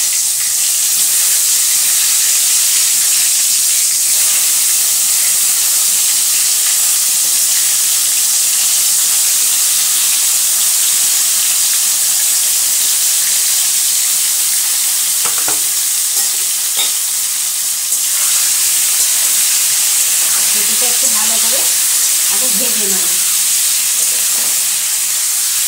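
Boiled taro pieces frying in hot oil in a kadai: a steady, loud sizzle as the wet pieces hit the oil, with a couple of sharp knocks about two-thirds of the way in.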